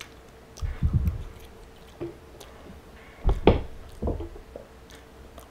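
Close-miked chewing of a mouthful of chili and onions: several short, wet, squishy mouth sounds, the loudest about three and a half seconds in.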